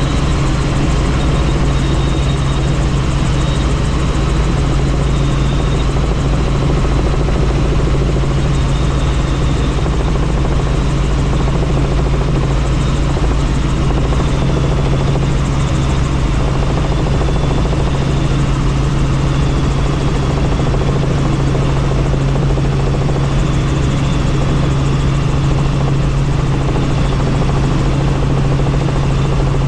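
Helicopter in flight, heard from on board: a steady, unchanging rotor and engine drone with a strong low hum, and a rushing haze of air noise above it.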